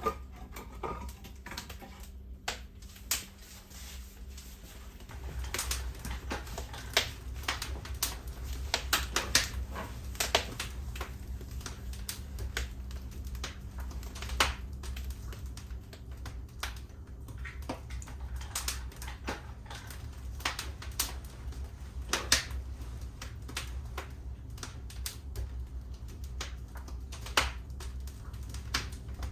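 Wood fire crackling: irregular sharp pops and snaps over a low rumble that grows stronger about five seconds in.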